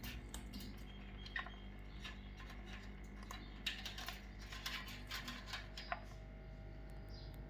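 Light irregular clicks and taps, most likely a pet parrot's beak and claws, with a few brief high squeaky notes among them over a faint steady hum; the clicks thin out near the end.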